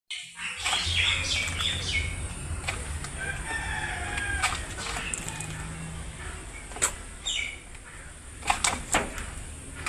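Parrot calling: short, falling, high calls in the first couple of seconds, scattered chirps, then several sharp, short squawks near the end. A steady low hum runs underneath.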